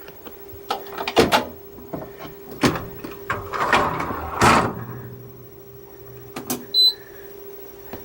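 Irregular clunks and knocks of a countertop portable dishwasher being handled and hooked up, over a steady low hum. A short electronic beep sounds near the end.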